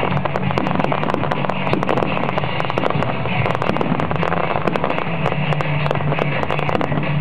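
Fireworks crackling: a dense, continuous run of many small sharp pops, over a steady low hum.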